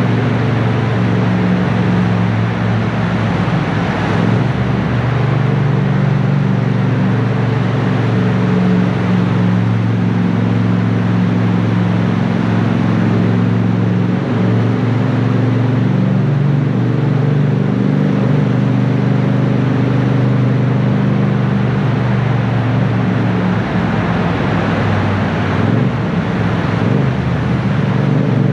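Yamaha 689 cc parallel-twin motorcycle engine running at a steady cruise, over a constant hiss of wind and wet-road noise. The engine speed shifts slightly about four seconds in and again near the end.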